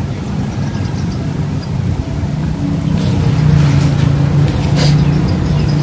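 A motor engine running steadily with a low hum that gets louder and settles on a steady tone about three seconds in.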